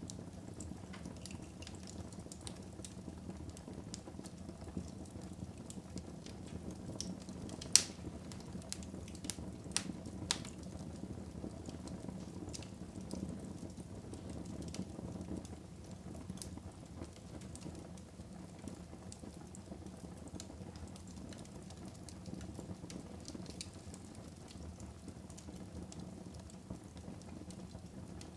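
Fire crackling in a fireplace: a steady low rush of flames with scattered sharp pops, the loudest about eight seconds in and a few more close together around ten seconds.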